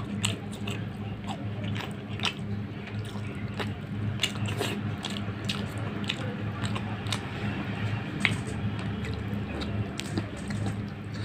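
Close-miked chewing and biting of a mouthful of fish curry and rice eaten by hand, with irregular wet mouth clicks, over a steady low hum.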